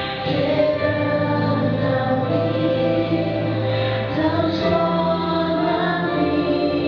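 Female gospel duo singing in harmony over musical accompaniment with a steady bass line.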